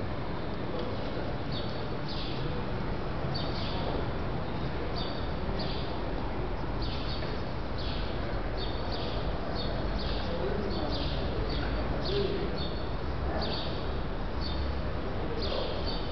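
Small birds chirping over and over, short high chirps that fall in pitch, against a steady low rumble of background noise.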